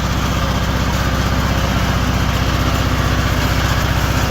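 Riding lawn mower engine running steadily, with a fast, even beat.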